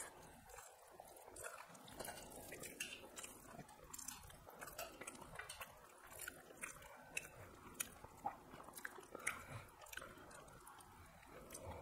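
Faint close-up chewing and eating sounds: people eating rice and fish curry with their fingers, with scattered small clicks throughout and a few louder ones near the end.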